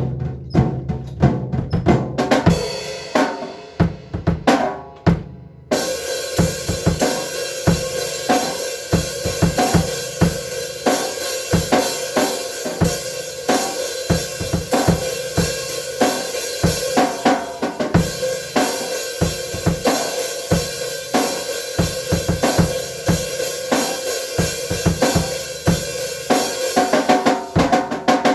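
Drum kit being played, starting suddenly with rapid drum strikes; a steady cymbal wash joins about six seconds in and carries on under the beats.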